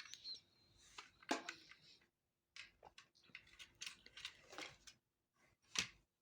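Small plastic clicks, taps and brief rattles from a toy washing machine being handled and loaded with powder, scattered irregularly with short silent gaps.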